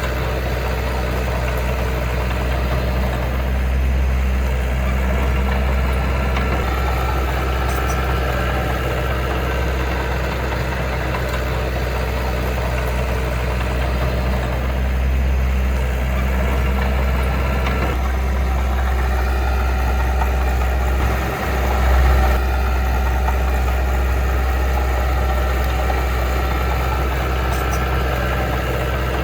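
Heavy diesel engine of earthmoving equipment running steadily, with a strong low hum; about three-quarters of the way through it dips briefly and then surges.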